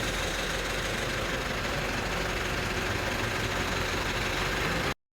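Car engine idling steadily just after starting, freshly filled with new oil following a diesel flush. The sound cuts off abruptly near the end.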